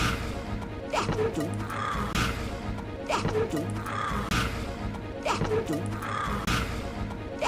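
Film soundtrack music with sharp knocks and clatter. The same short stretch is replayed in a loop, repeating about every two seconds.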